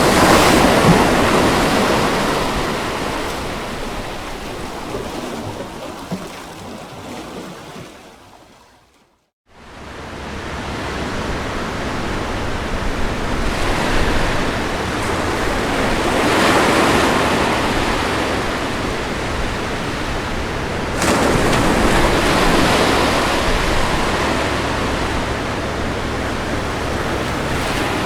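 Ocean waves washing onto a beach, each surge of surf swelling and ebbing over several seconds. About eight seconds in the sound fades almost to silence for a moment, then the surf swells back.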